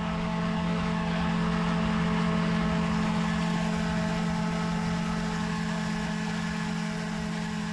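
Airboat's engine and air propeller running steadily under way, a constant hum with a strong low tone.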